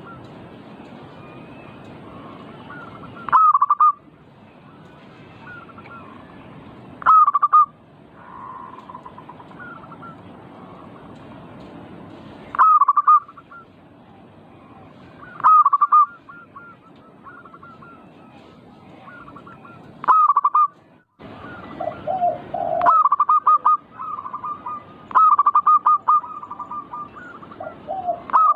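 Zebra doves (perkutut) cooing: short, loud, quick-pulsed phrases repeated every few seconds, coming close together near the end, over a steady background hiss with faint chirps from other birds.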